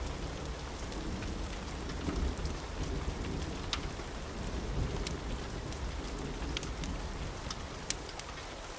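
Steady rain with a low rumble of thunder underneath, and scattered sharp ticks of drops.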